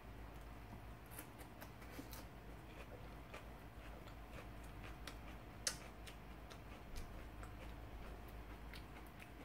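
Faint, scattered wet mouth clicks from chewing a mouthful of food, over a steady low hum, with one sharper click a little past halfway.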